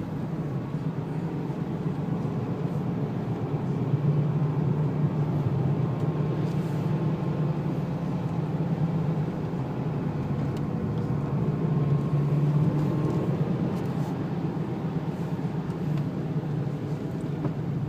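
Cabin sound of a Renault Laguna's 2-litre turbo diesel running steadily at low cruise, with a low engine hum under steady road and tyre noise.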